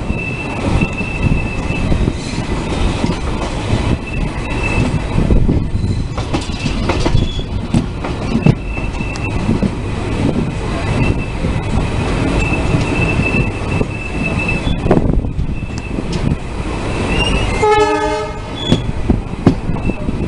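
Passenger train coaches running at speed, the wheels rumbling and clattering over the rail joints with a thin squeal that comes and goes. A short horn blast sounds near the end, from the WDM-3D ALCO diesel locomotive at the head of the train.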